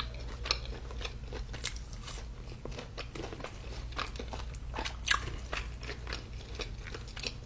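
A person chewing a fried chicken tender close to the microphone: irregular crunches and small wet clicks of biting and chewing, over a steady low hum.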